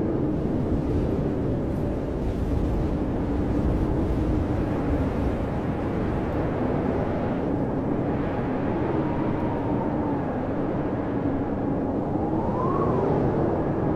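Blizzard wind howling: a steady rush of wind noise with a low rumble, and whistling tones that slowly rise and fall, swelling higher near the end.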